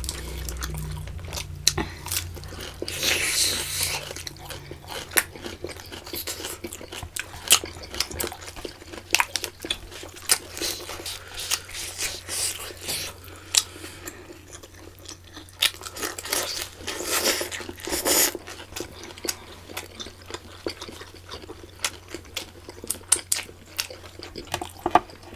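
Close-up chewing and mouth sounds of people eating octopus tentacle and prawns: wet smacking and crunching with many sharp, irregular clicks.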